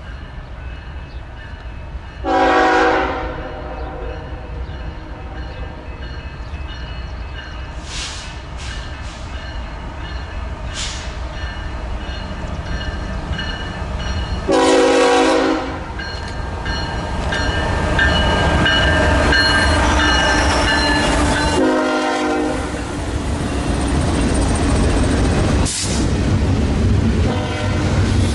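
Locomotive air horn sounding three short blasts, chords of several tones, as a train approaches. The rumble of the train grows from about halfway through and stays loud as it passes close by.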